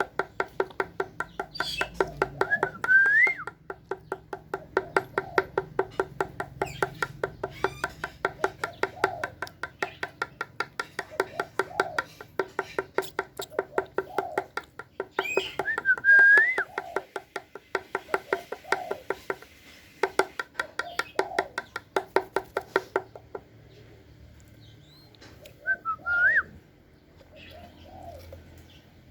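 Rapid, even tapping, about five sharp ticks a second, of a spotted dove pecking seed from a hard feed cup; the tapping stops a few seconds before the end. Three times a short, rising whistled chirp sounds over it.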